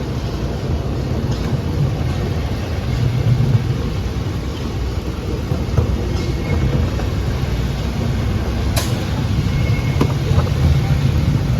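Steady low rumble of running engines, with a single sharp click about nine seconds in.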